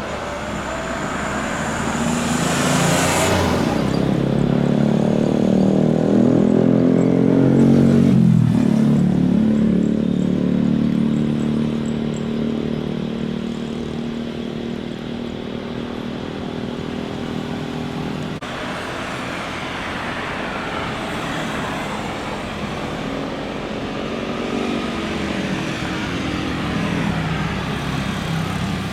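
Jet airliner passing low overhead on landing approach: its engine whine and hum fall steadily in pitch as it goes by, loudest about six to eight seconds in. The noise then fades to a steady rumble, with another drop in pitch near the end.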